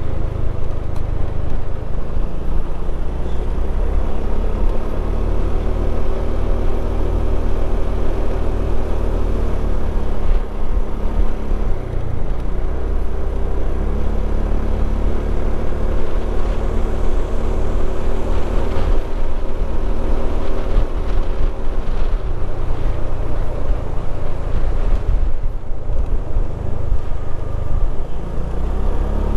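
Motorcycle engine running while riding, its pitch shifting up and down with the throttle, over a steady low rumble of wind on the microphone.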